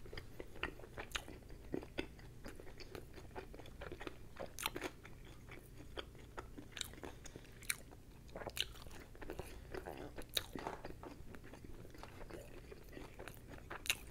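Close-miked chewing and biting of crispy battered chicken balls: irregular small crunches and wet mouth clicks, a few sharper than the rest.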